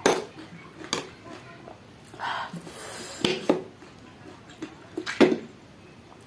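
Eating pani puri close to the microphone: crisp, hollow puri shells crack sharply five times, twice in quick succession past the middle, with mouth and chewing noises in between.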